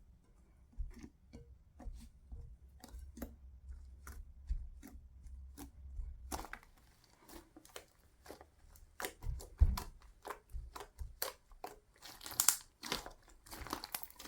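Hands handling things at close range: irregular small clicks and crinkling. They grow busier and noisier about halfway through, with a few louder knocks near the end.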